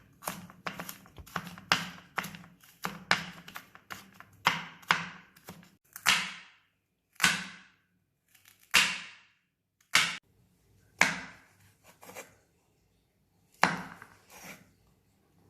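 Kitchen knife chopping ingredients on a cutting board. A quick run of strokes, about two or three a second, slows after about six seconds to single, spaced cuts.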